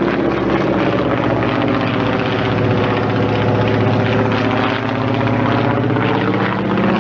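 Piston engine of a propeller-driven airshow plane running, a steady loud drone.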